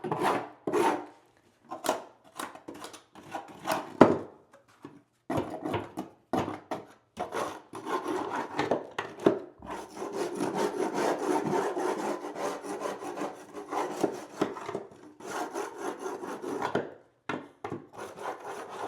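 Scraping and rubbing on a wooden subfloor to clean off debris: irregular strokes at first, then a stretch of quicker, steadier scraping in the middle, then a few more strokes that stop shortly before the end.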